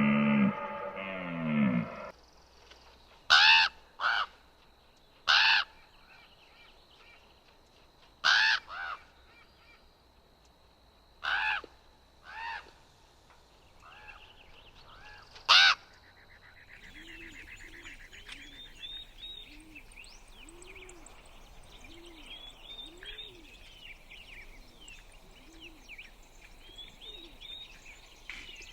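After the tail of a deep animal call at the start, a bird gives about eight loud, harsh, caw-like calls, singly and in pairs, a second or more apart. From about halfway, quieter high chirping and twittering takes over, with soft low calls repeated over it.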